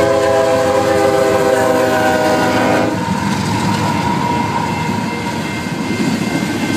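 Train horn sounding a chord, held until it cuts off about three seconds in, then the rumble and wheel clatter of a fast train passing by.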